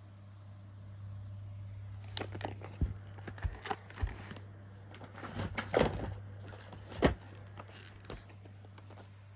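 Handling noise: plastic wrapping crinkling and rustling with irregular light knocks as items are moved about, strongest in the middle, over a steady low hum.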